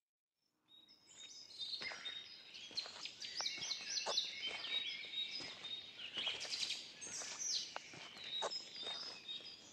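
Birds chirping: many quick, overlapping high calls with a few sharp clicks among them, starting about a second in after dead silence.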